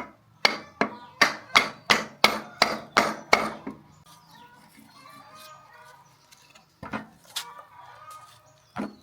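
A quick run of about nine sharp, ringing strikes, about three a second, like a hammer working on engine parts, then a few single strikes further apart. Hens cluck faintly in the background.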